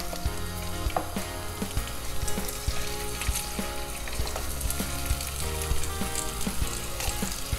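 Whole shell-on red prawns and garlic cloves frying in hot oil in a frying pan: a steady sizzle with scattered crackling pops.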